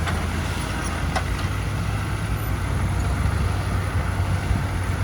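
Heavy machine's diesel engine running steadily at low speed, with one faint tick about a second in.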